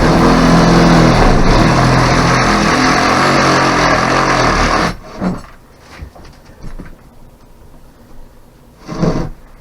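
A motorised tool running loudly. It cuts off about five seconds in and gives a short burst near the end.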